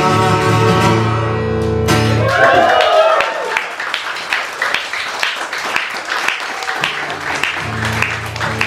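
An acoustic guitar's last chord rings out and is cut off about two seconds in. After that, audience applause of many scattered claps follows.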